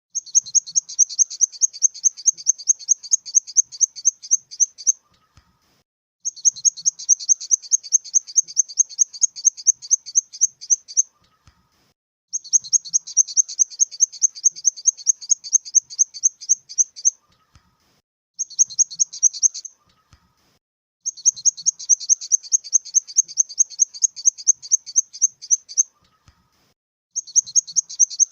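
Grasshopper stridulating: trains of rapid, high-pitched chirping pulses, about six a second, in bursts of mostly about five seconds with short pauses between.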